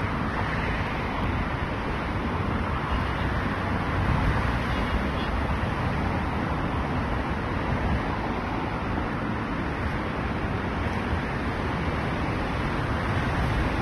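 Steady outdoor background noise, an even rushing with a low rumble and no distinct events, of the kind that distant road traffic makes.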